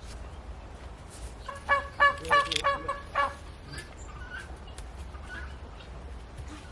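An animal calling: a quick series of about six pitched calls lasting about a second and a half.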